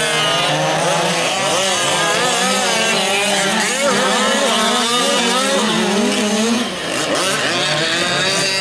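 Several fifth-scale gas RC trucks' small two-stroke engines buzzing and revving up and down together, with overlapping pitches that rise and fall constantly as the trucks race.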